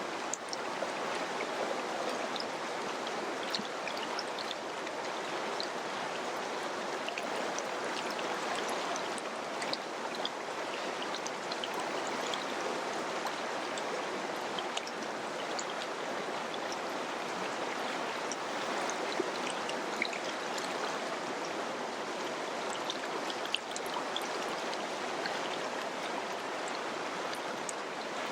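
Mountain river flowing, a steady rush of water with many small splashes and drips scattered through it.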